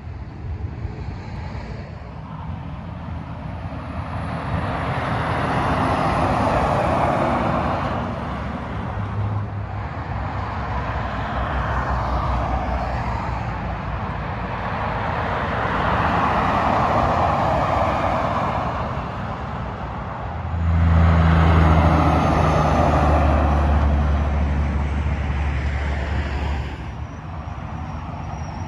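Freeway traffic passing one vehicle after another, tyre noise swelling and fading about four times. The loudest pass, about three quarters of the way through, carries a deep, steady engine drone, as from a heavy truck going by.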